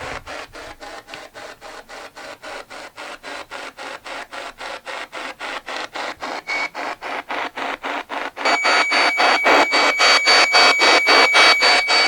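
Spirit box radio sweeping through stations: choppy static pulsing about four to five times a second as it steps from station to station. About eight seconds in it gets louder and a steady high whine joins the static.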